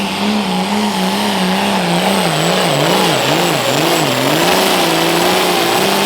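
Case IH MX pulling tractor's turbocharged diesel engine running hard under load down the pull track, with a high turbo whine over it. The engine pitch wavers throughout and swings up and down sharply about halfway through as the tractor bogs and recovers against the sled.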